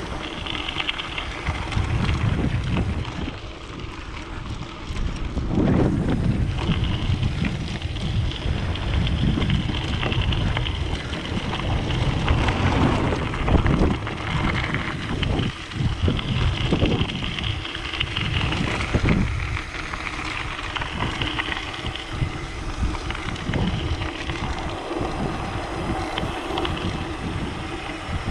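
Wind buffeting the microphone of a mountain biker riding into a headwind, with the rolling noise of the bike on a dirt road.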